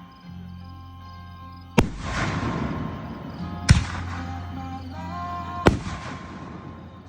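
Fireworks shells bursting: three sharp booms about two seconds apart, each trailing off in a spread-out noisy tail, with music playing underneath.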